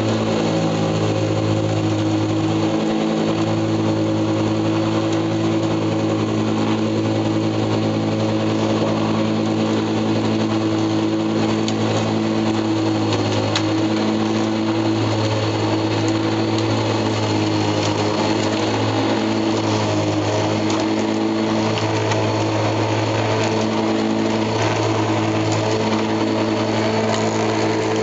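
Small lawn mower engine running steadily at constant speed while mowing.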